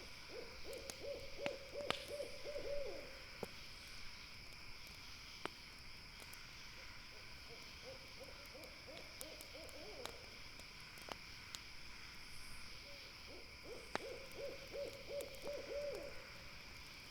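An owl calling three times, each call a rapid run of short low hoots lasting two to three seconds. Behind it run a steady high-pitched drone and scattered sharp crackles from a campfire.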